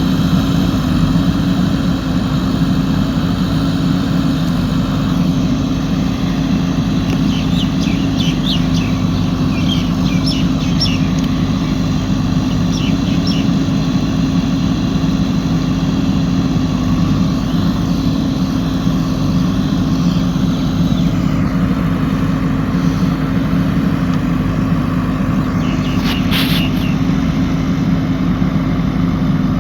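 JCB 3DX backhoe loader's diesel engine running steadily at a constant pitch. A few short, high chirps come in the first half, and a brief sharp sound cuts through near the end.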